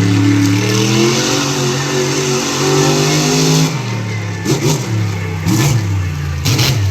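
Monster truck engine revving up and held at high revs for about three and a half seconds, then dropping off. It is blipped in short, sharp revs about once a second.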